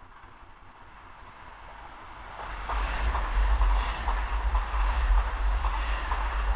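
Red electric multiple-unit passenger train approaching and running through the station at speed, growing loud about two and a half seconds in, with its wheels clattering on the rails and the air blast of the passing train buffeting the microphone.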